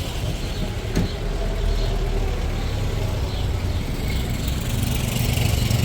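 A steady low engine rumble, like a motor vehicle running nearby, growing somewhat louder toward the end, with a single sharp knock about a second in.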